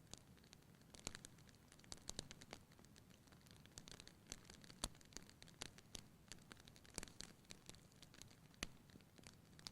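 Wood fire burning in a fireplace, crackling faintly: irregular small pops and snaps, a few a second, with two sharper snaps about five and eight and a half seconds in, over a soft low hiss.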